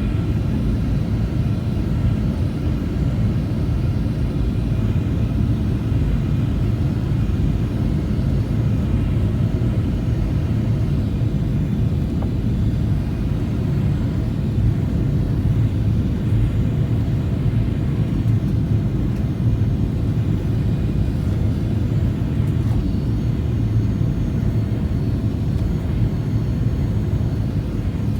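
Steady cabin noise inside a Boeing 737-800 airliner in flight: a constant low rumble of engines and airflow with a faint steady whine above it.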